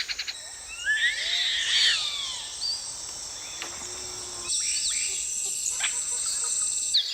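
Forest ambience: a steady, high insect drone, with several sweeping bird calls about a second in.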